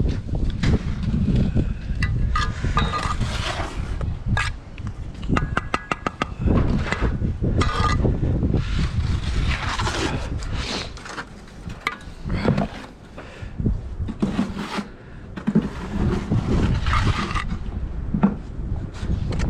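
Bricklaying work: a steel trowel scraping and spreading mortar and knocking bricks into place, with a quick run of taps about five seconds in. Wind rumbles on the microphone throughout.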